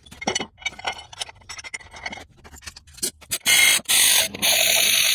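Ratchet wrench clicking in quick strokes as the alternator bolts are run down, then, over the last second and a half or so, a loud, steady, high-pitched whir that stops briefly once partway through.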